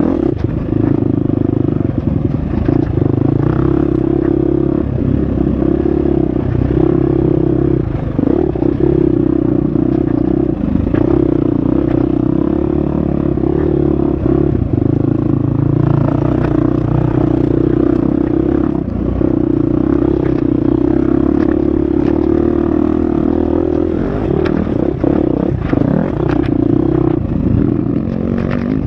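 Husqvarna FX 350 single-cylinder four-stroke dirt bike engine running hard on a trail, the note dipping briefly every few seconds as the throttle comes off and back on. Short knocks and clatter from the bike over rough ground.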